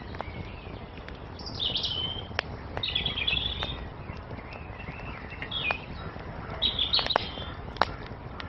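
Songbirds singing in four short, bright chirping phrases over a wood fire crackling with scattered sharp pops, against a low steady rush.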